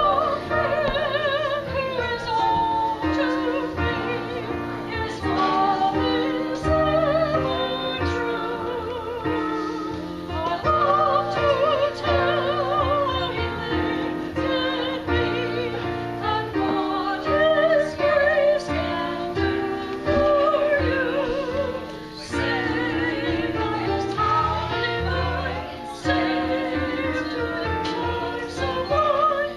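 Music: a solo voice singing with a wide vibrato over sustained instrumental chords and low bass notes.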